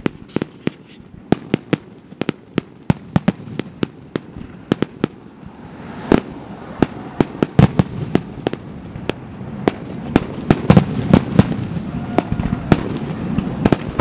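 Aerial fireworks bursting in quick succession, several sharp bangs and cracks a second. From about halfway a rumble builds underneath, and the bursts grow denser and louder toward the end.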